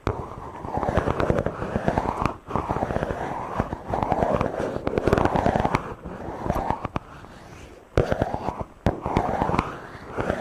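Something rubbing directly on a microphone in slow back-and-forth strokes: a dense scratchy crackle with a swish that rises and falls with each stroke, with a few short breaks.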